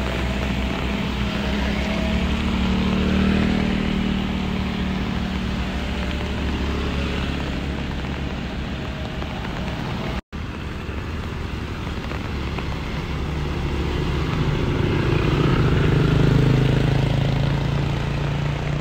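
A line of small cars driving up a steep incline, their engines working under load as they pass one after another. The engine sound swells about three seconds in and again near the end, with a brief break about halfway.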